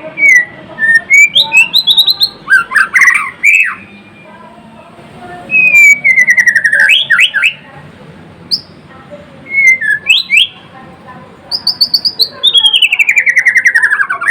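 White-rumped shama singing in full voice: loud, varied whistled phrases with quick upsweeping notes and fast trilled runs that slide down in pitch, broken by short pauses.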